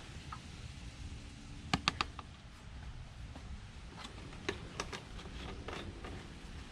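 A few sharp, light clicks and taps from small objects being handled: three close together about two seconds in, then a scattered handful between four and six seconds.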